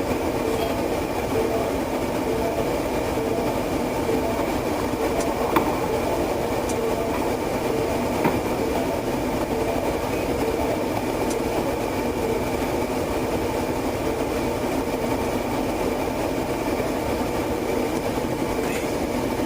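Steady, unbroken rumble and hum inside a police patrol car's cabin, with a faint steady tone over it and a few light ticks.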